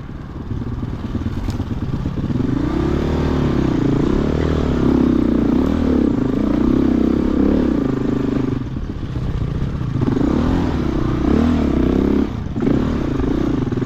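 2007 Husqvarna TE-450 single-cylinder four-stroke dirt bike engine revving up and down as it is ridden, with the throttle briefly backed off twice.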